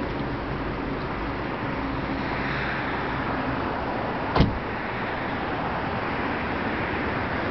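BMW Z3 1.9's M44B19 inline four-cylinder engine with an OBX aftermarket exhaust, running steadily with a low hum. A single sharp click comes about four seconds in.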